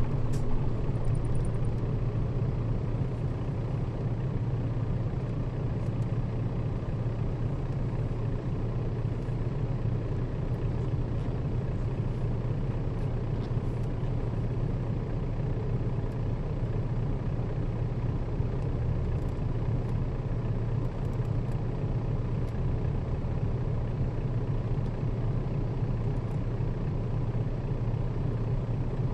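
Nissan Diesel KL-RA552RBN bus running steadily: an even low engine drone over road noise, with a few faint rattles.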